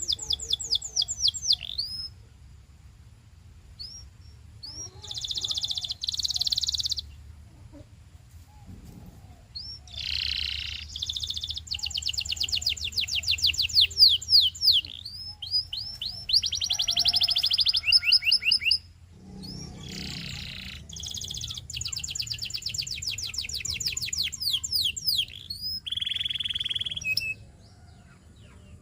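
Domestic canary singing: a string of trilled phrases, each a fast run of identical falling notes, with short pauses between them.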